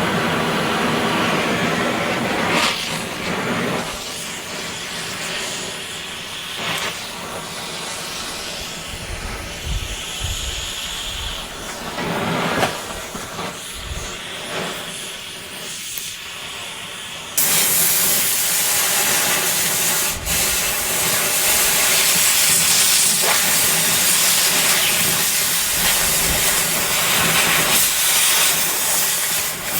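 Steady loud hissing from steel plate being cut. It steps up sharply, louder and brighter, about 17 seconds in.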